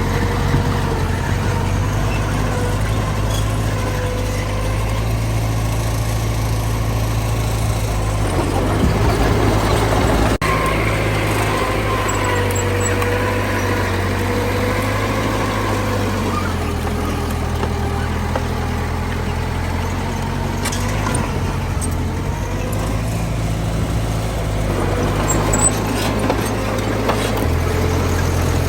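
Heavy diesel machinery running steadily, a dump truck and bulldozer at work. The low engine note shifts pitch a couple of times, and there is one brief sharp click about a third of the way through.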